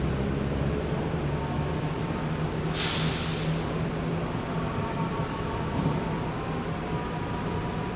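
A bus engine running steadily, with a short air-brake hiss about three seconds in.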